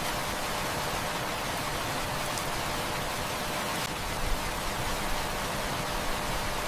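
Heavy rain falling in a steady, even hiss, with a few faint ticks here and there.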